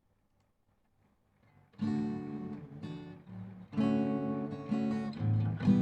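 Near silence for about a second and a half, then an acoustic guitar starts a song's introduction, strumming chords.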